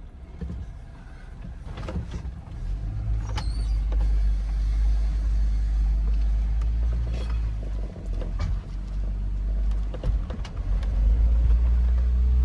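A 4x4's engine pulling at low revs as the vehicle crawls up a steep wet slickrock ledge, with a few knocks. The engine eases off briefly about eight seconds in and pulls harder again near the end.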